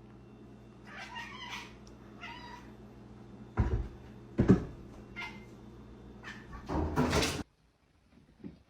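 A cat meowing, a couple of short cries, with two loud thumps in the middle and a louder noisy stretch near the end over a steady low hum.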